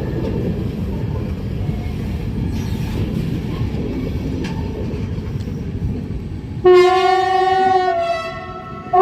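A train moving out with a steady low rumble of wheels on rails. About two-thirds in, a loud train horn sounds for about a second and a half, its pitch stepping down slightly, and a second blast starts right at the end.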